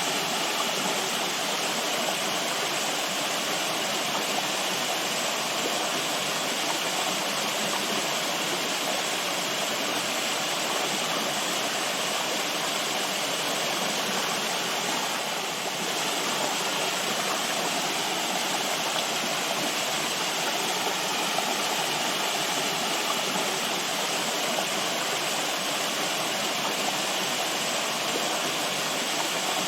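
Natural running water rushing steadily, like a stream or small waterfall, with an even hiss and no breaks.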